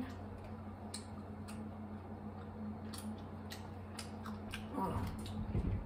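Scattered soft clicks and smacks of people chewing food, over a steady low electrical hum. A brief low mumble comes near the end.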